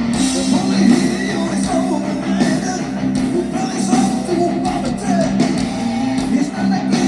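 Live symphonic metal band playing an instrumental passage: distorted electric guitars, bass and drums with cymbals over steady held low chords, and a wavering melodic line above them.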